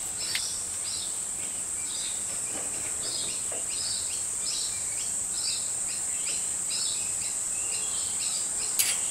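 A bird chirping over and over in short calls, roughly two a second, over a steady high-pitched drone, with a faint click near the end.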